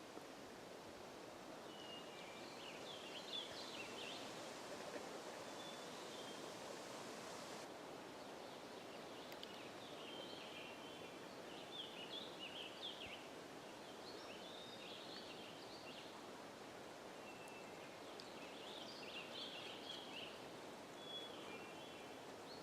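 Songbirds singing outdoors: several phrases of quick, high chirps, a few seconds apart, with short thin single notes between them, over a steady background hiss.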